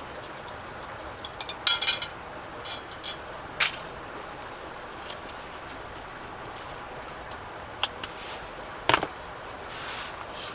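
A few sharp clinks and knocks of camp cookware and utensils, the loudest ringing cluster about two seconds in and single knocks near four and nine seconds, over a steady background hiss.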